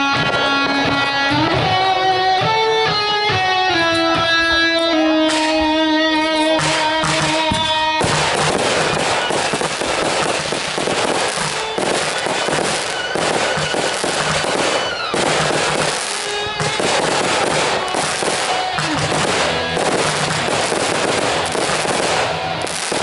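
Guitar music with held notes that cuts off abruptly about a third of the way in, giving way to a dense, continuous stream of firework bangs and crackling.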